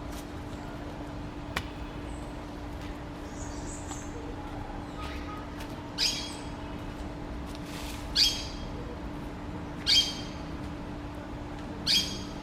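A bird calling four times, about two seconds apart, each call short and sharp, over a steady low hum.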